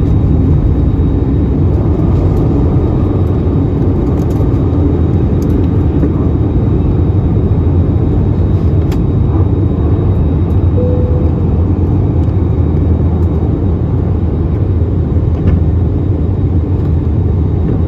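Frontier Airbus A320neo's jet engines running at departure power, a loud, steady low roar that holds level throughout.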